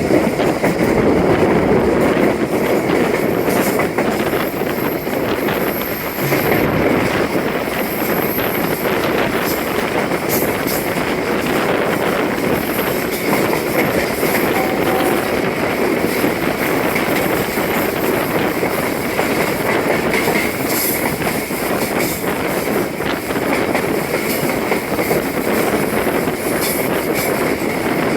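Passenger train running on the line, heard from on board: a steady rumble and rattle of coach wheels on the rails.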